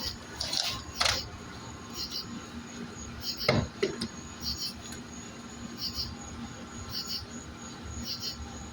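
Crickets chirping steadily, short double chirps about once a second. A couple of brief rustling bursts come about a second in, and a louder brief sound about three and a half seconds in.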